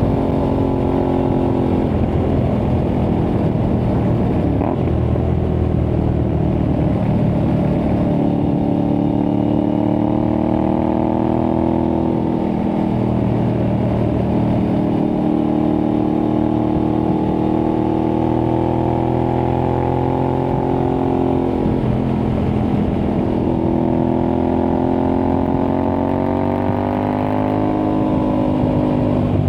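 Aprilia Tuareg 660's parallel-twin engine running under way through an Akrapovic-replica exhaust, its revs rising and falling in slow swells several seconds long.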